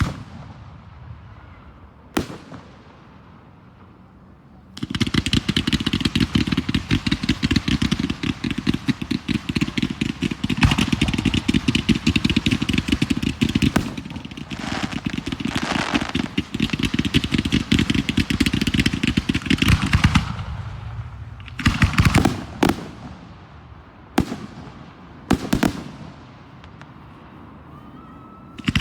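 Aerial fireworks: two single bangs, then about sixteen seconds of dense, rapid crackling and popping. Near the end comes a string of separate sharp bangs.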